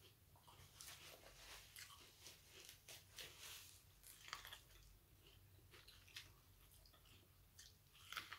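Faint crunching and chewing of corn on the cob as kernels are bitten off the cob and chewed, heard as irregular small crackles and clicks.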